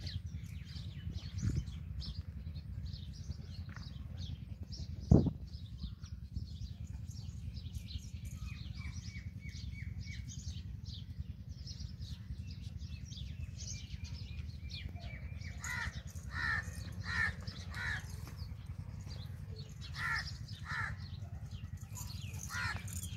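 Birds chirping and calling in many short notes, with two groups of louder repeated calls, one about two-thirds of the way in and one near the end, over a steady low rumble. A single sharp knock sounds about five seconds in.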